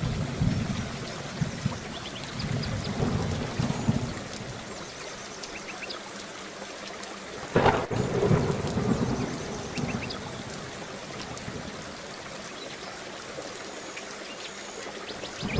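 Steady rain falling through a thunderstorm, with low thunder rumbling in the first few seconds. About halfway through, a sharp thunderclap cracks and rolls off into rumbling that fades over a couple of seconds.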